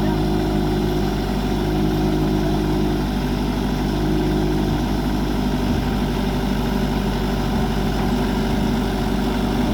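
A heavy work machine's engine running steadily at an even speed.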